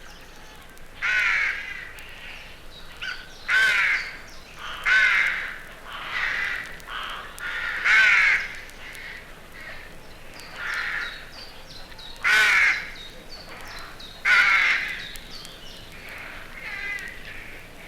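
Rooks cawing: a series of about nine harsh caws, one every second or two, with faint small-bird chirps behind them.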